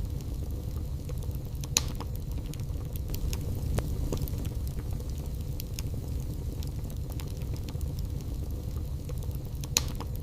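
Wood fire burning in a fireplace: scattered sharp crackles and pops of the logs over a steady low rumble, with two louder pops, one about two seconds in and one near the end.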